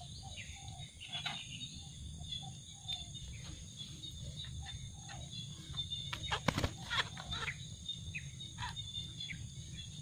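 Faint, scattered bird chirps over a steady, high insect drone, with a few sharp handling clicks and rustles about six and a half seconds in.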